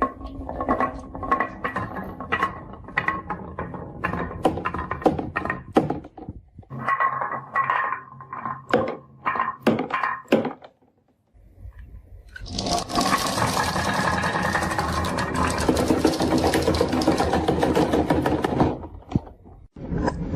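Marbles clicking and clattering down a wooden marble run, many quick knocks for about ten seconds. After a brief pause comes a long, dense rattle lasting about seven seconds.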